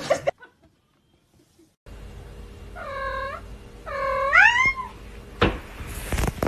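A cat meowing twice, a short call and then a longer one that rises and falls in pitch, followed by a thump.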